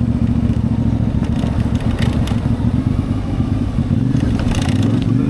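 CFMoto 450MT's parallel-twin engine running at a steady pace while riding. A few short clattering ticks come through about two seconds in and again near the end.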